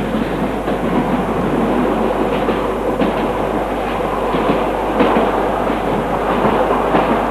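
A rail vehicle rolling along the track, its wheels clattering with irregular clicks over a steady rumble, growing slightly louder.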